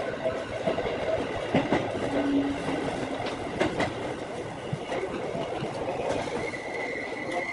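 Electric commuter train rolling slowly into a terminal platform, heard from the front cab: running noise with sharp wheel clacks over rail joints and points, and a brief high squeal near the end.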